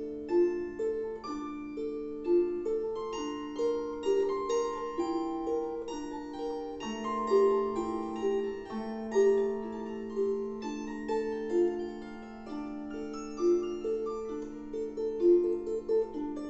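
Solo instrumental performance of a slow lullaby: a melody of distinct notes over a held bass note, with one change of bass about halfway through.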